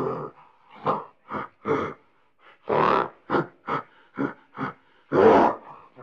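Silverback gorilla grunting: a run of short, pitched grunts, about ten in six seconds, with longer, louder ones at the start, about three seconds in and about five seconds in.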